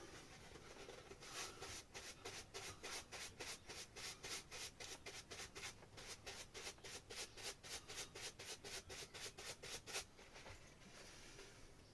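Paintbrush bristles scrubbing back and forth across an oiled canvas, about three or four quick scratchy strokes a second, stopping after about ten seconds.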